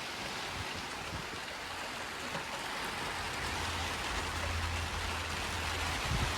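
Rain falling steadily: an even hiss of many drops, with a low rumble partway through.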